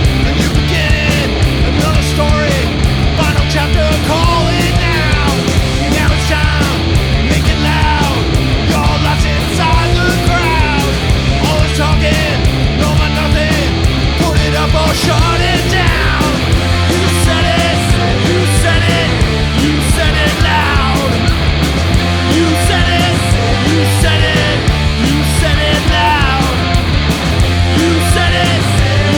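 Punk rock song played by a band on distorted electric guitars, bass and drums, loud and steady throughout with constant cymbal hits.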